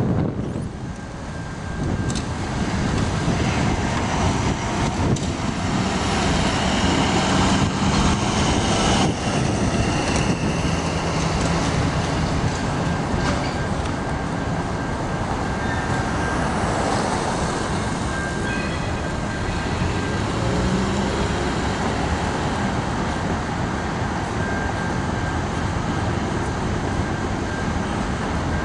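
Freight train cars rolling steadily over a level crossing: a continuous rumble and clatter of wheels on rail, with a thin high tone coming and going.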